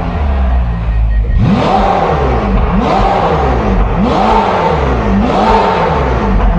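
Ferrari 488 GTB's twin-turbo V8 blipped four times through an FI Exhaust valved system with the valves open, each rev rising sharply and falling back to idle.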